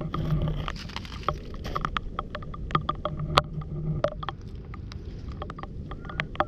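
Irregular clicks, knocks and crunches of stones, shells and debris shifting on a muddy river foreshore as it is walked on and searched through.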